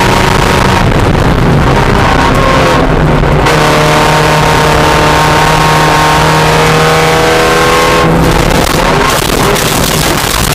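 Spec Miata race car's four-cylinder engine running hard at high revs, its pitch climbing steadily for several seconds as it accelerates. It briefly eases off about three seconds in and again near the end.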